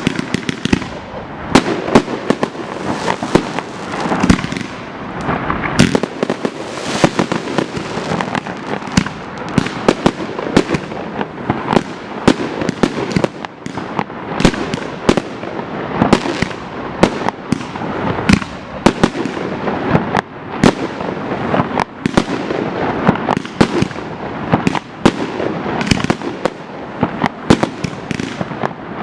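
High-altitude aerial firework shells bursting in rapid, continuous succession, with loud bangs several times a second and no pause.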